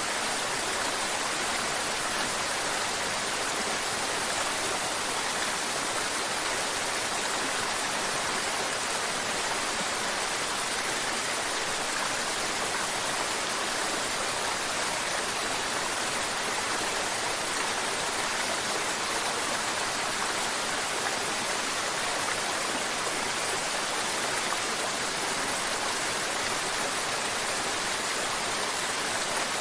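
Mountain stream water running and splashing in a steady rushing hiss, with little low rumble.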